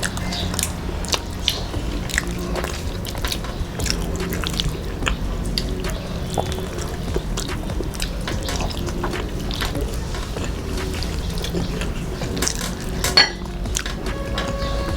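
Close-up eating sounds: wet mouth noises and chewing, with many small clicks and light clinks from a plate, and a sharper clink about 13 seconds in, over a steady low hum.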